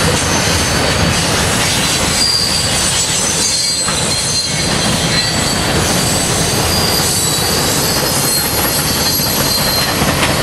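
CSX freight train rolling past: a steady loud rumble of steel wheels on the rails, with thin high wheel squeals drifting over it.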